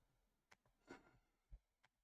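Near silence: room tone with four faint, separate clicks.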